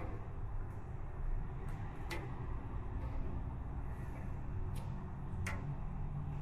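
A few sharp, isolated clicks, the clearest about two seconds in and again near five and a half seconds, over a low steady hum.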